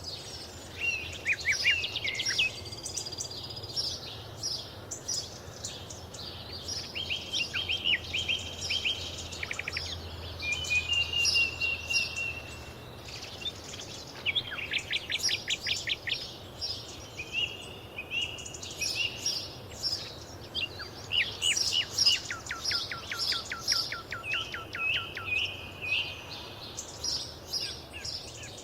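Several songbirds singing and calling over one another: quick chirps, whistled phrases and rapid trills of repeated notes.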